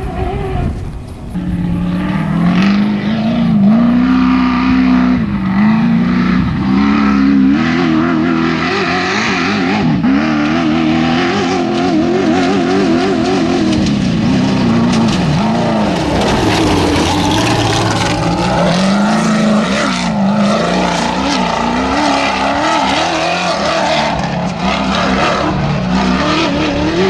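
Off-road desert race vehicle's engine running hard for the whole stretch, its pitch rising and falling again and again with the throttle, over a rushing noise.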